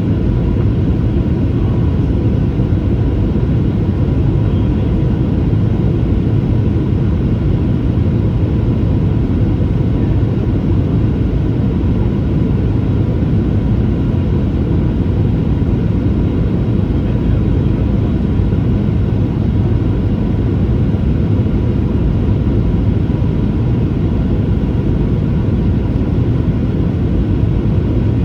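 Steady cabin noise of a Boeing 737-800 in flight: a constant deep rumble of engines and airflow, with a faint steady whine on top.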